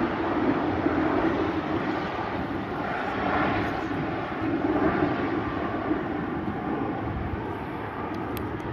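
Airliner engines rumbling as a plane passes, slowly fading away, with gusty wind buffeting the microphone.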